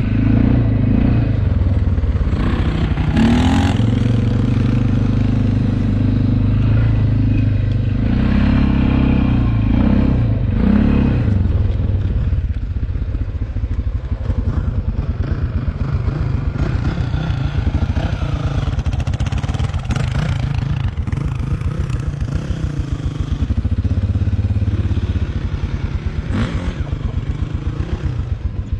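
Motocross bike engine running, its pitch rising and falling as it revs up and back off several times.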